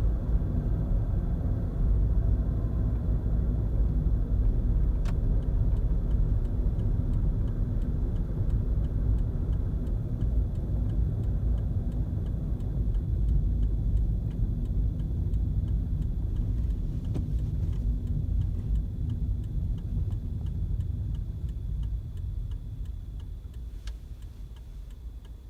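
Suzuki Swift 1.3 L heard from inside the cabin while driving: a steady engine and road rumble that eases off over the last few seconds as the car slows. A faint, regular ticking runs beneath it.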